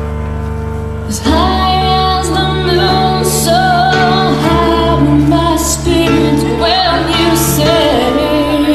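A solo female voice singing a slow, tender ballad over instrumental accompaniment. The voice comes in about a second in, after a held chord.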